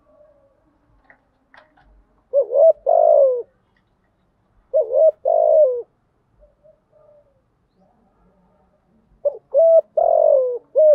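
Spotted dove cooing: three phrases, each of a couple of short notes followed by a longer, falling coo, with pauses between.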